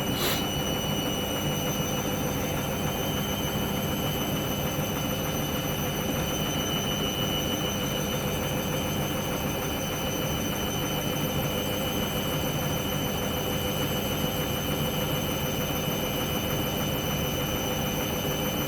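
Hoover washing machine on its first spin of a cotton 90 °C wash, the drum and motor running at a steady speed with a constant high whine over a rushing hum.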